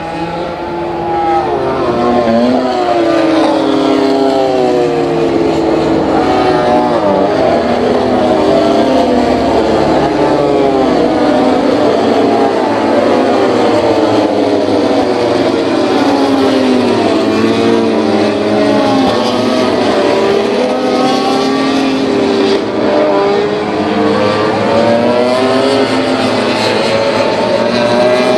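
Several MotoGP racing motorcycles running hard, their loud engine notes overlapping and rising and falling over and over as the revs climb and drop.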